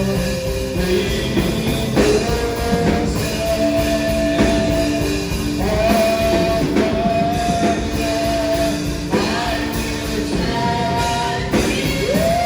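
Live worship band playing a slow song, with a voice singing long held notes over the instruments and regular drum beats.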